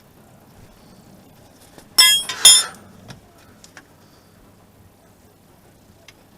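Two sharp, ringing metal-on-metal clinks about half a second apart, as a metal tool or part strikes metal during engine work, followed by a few faint ticks.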